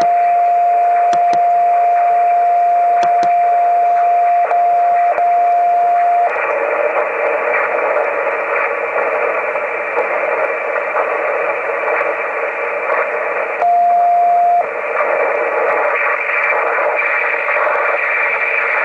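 A radio receiver's audio with a steady, single-pitch CW beat tone from the Si5351A generator's unmodulated carrier over narrow-band receiver hiss. The tone drops out twice very briefly, then stops about six seconds in, leaving only the hiss. It comes back for about a second near three-quarters of the way through, then hiss again.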